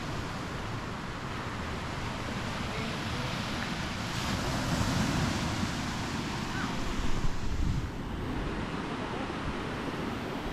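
Ocean surf washing onto the beach, a steady rush that swells a little about four seconds in and again near seven seconds, with wind buffeting the microphone.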